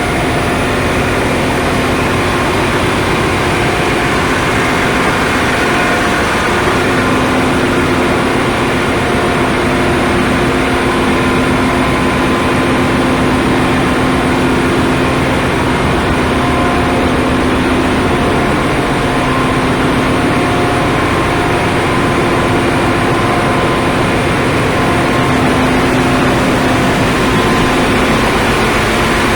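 Ship's engine-room machinery running, a loud steady drone with a deep rumble and several humming tones over it.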